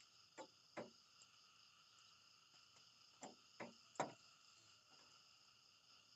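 Faint, steady chirring of insects, with five sharp clicks in two groups, the loudest about four seconds in.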